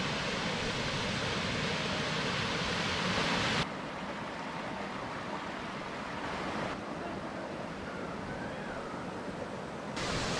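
Waterfall, a steady rush of falling water in short spliced takes. The level drops abruptly about a third of the way in and changes again twice more at later cuts.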